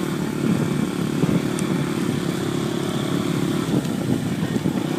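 Dirt bike engine running steadily at an even speed.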